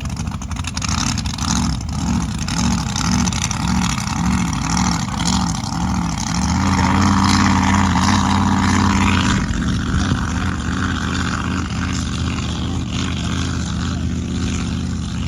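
Racing boat's engine running at close range: its revs rise and fall about twice a second for the first several seconds, then hold higher and louder for about three seconds before dropping back.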